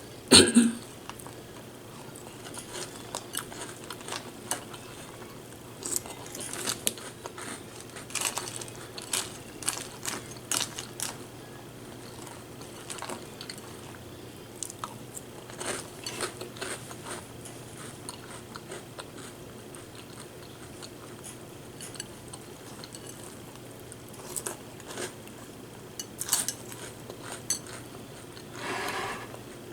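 Birthday cake cereal being crunched and chewed close to the microphone, with a spoon clinking against the bowl between bites. A sharp clack about half a second in is the loudest sound, and a longer scraping, scooping sound comes near the end.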